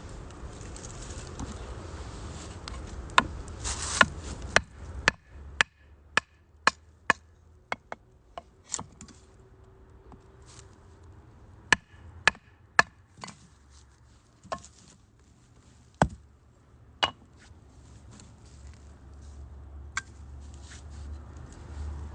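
Firewood burning in a UNIFLAME Nature Stove Large, crackling with irregular sharp pops, over a low hiss during the first five seconds.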